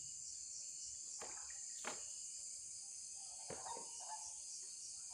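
Steady high-pitched chorus of night insects, crickets among them. A few faint sharp clicks or knocks come about a second in, just before two seconds and at about three and a half seconds.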